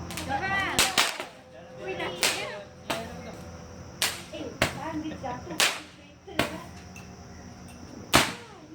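Firecrackers going off: about nine sharp cracks at uneven intervals, some in quick pairs.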